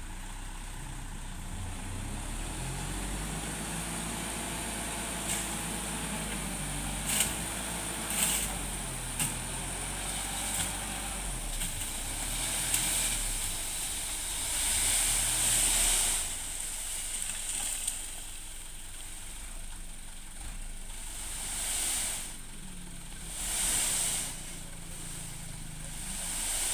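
Mitsubishi Canter dump truck's diesel engine running, its pitch rising and falling for several seconds, with a few sharp knocks. Swells of hissing come and go, loudest near the middle and again near the end.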